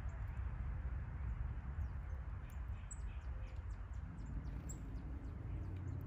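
Outdoor ambience of a steady low rumble with faint, short high bird chirps scattered through the middle. From about four seconds in, a low engine hum rises, as of a vehicle approaching.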